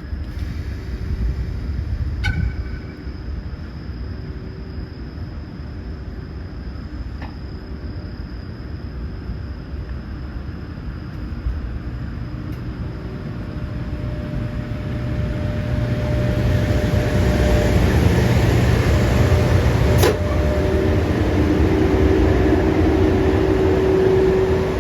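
Train running on the rails: a steady low rumble with a few sharp clicks. It grows louder from about the middle, and a steady hum comes in near the end.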